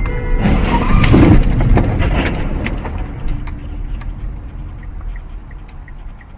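Vehicle collision: a loud crash about half a second in, followed by crunching and clattering debris that fades over the next few seconds. Regular quick ticks, about three a second, follow near the end.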